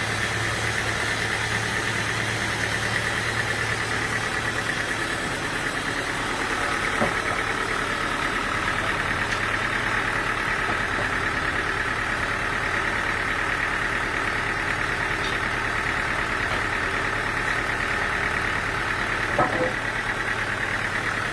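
Sawmill machinery running steadily, an engine or saw drive, with a steady higher tone joining about six seconds in and a couple of brief knocks.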